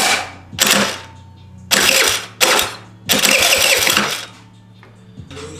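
50cc four-stroke Chinese scooter engine (139QMB) running with its air box removed, blipped hard about five times with a steady idle between, settling to idle near the end. It is running rough and starving for fuel, which the owner puts down to a dirty carburettor.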